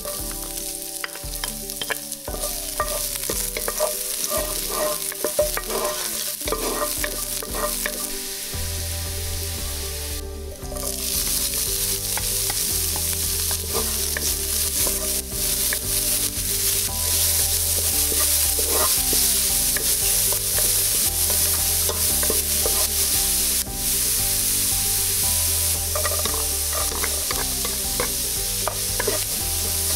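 Minced garlic, then chopped onion and celery, sizzling in a hot nonstick pot while a wooden spatula stirs and scrapes, with small clicks and taps. The sizzle grows louder about a third of the way in.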